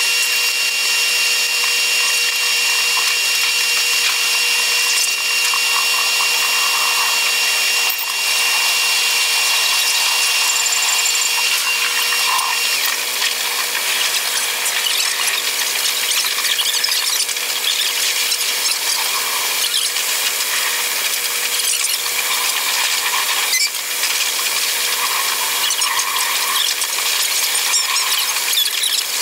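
Train running noise played back at eight times speed: a dense, high-pitched whirring with squeals and a thin steady whine that stops about halfway through.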